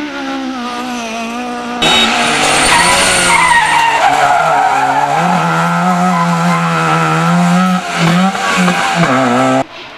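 Rally car engines at high revs, rising and falling with throttle and gear changes. About two seconds in, the sound jumps abruptly to a much louder car close by, with a noisy hiss of tyres skidding over the engine. Near the end it drops back just as suddenly to a quieter engine.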